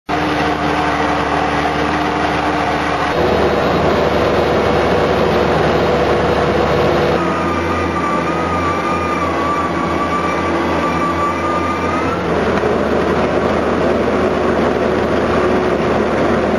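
Skid steer working a cold planer attachment, its milling drum grinding pavement over the machine's engine and hydraulics: a loud, steady machine noise. The pitch of its hum changes abruptly about 3, 7 and 12 seconds in, and a wavering high whine runs between about 7 and 12 seconds.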